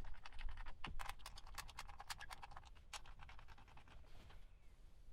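Small ratcheting torque wrench clicking quickly as it turns down the coil pack bolts, a run of light clicks that stops about four seconds in.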